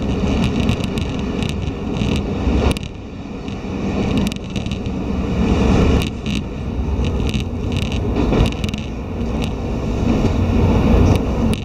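Running noise heard inside a diesel railcar: a steady low rumble of the wheels on the rails and the engine, with many short clicks and rattles throughout.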